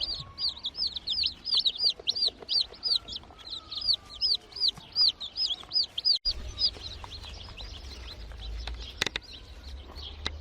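Newly hatched chicks peeping in quick, high-pitched chirps, about four a second, cutting off abruptly about six seconds in, then fainter, scattered peeps with a single click.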